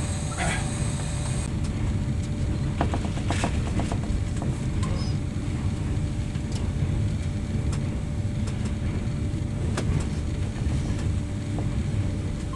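Passenger train running, heard from inside the carriage: a steady low rumble with a faint steady hum and scattered clicks and rattles.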